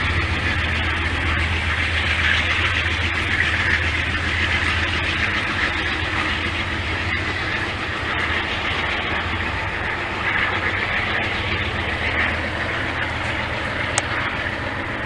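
A train passing: a steady rumble and hiss of rail cars rolling along the track.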